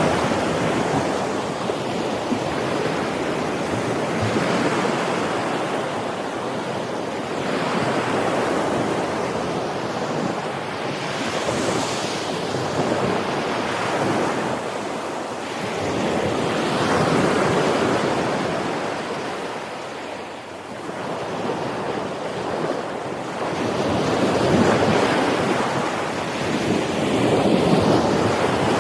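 Ocean waves breaking and washing in, the surf noise swelling and fading in repeated surges every few seconds.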